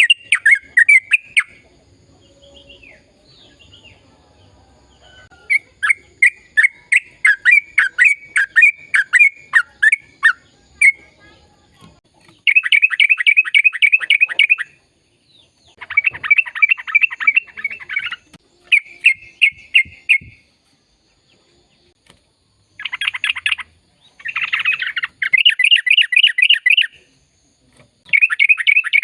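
Sooty-headed bulbul (trucukan) singing actively. It gives repeated runs of fast chattering notes, each run a few seconds long, with short pauses between.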